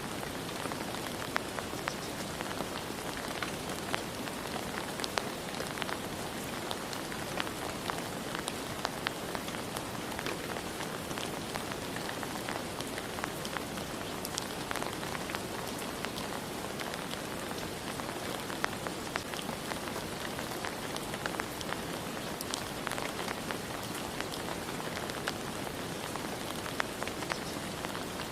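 Steady rain falling, with many individual drops pattering and ticking close by.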